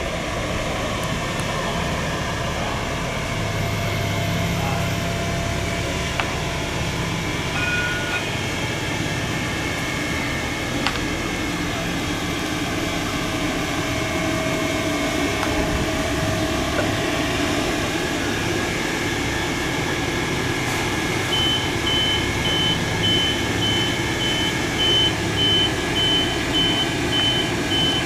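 Van Hool Exqui.City articulated bus driving off, its drive running steadily. From about three-quarters of the way in, a rapid run of short high beeps starts and keeps going.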